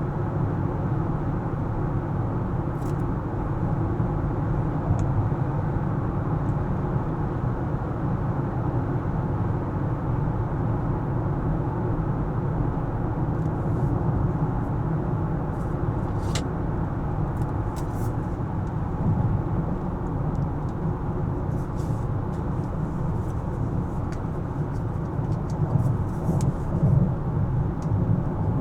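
Car driving on city streets: steady low engine and tyre rumble, with a few brief light clicks now and then.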